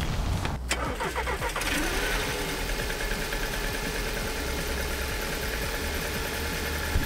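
Skoda Octavia A7's 1.8 TSI petrol engine cranked by the starter for about a second, catching with a brief rev flare and settling into a steady idle. It starts easily, with only a slight stumble as it catches.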